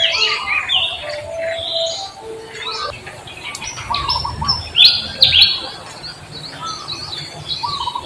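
Birds chirping in quick, overlapping calls, with the loudest pair of chirps about five seconds in.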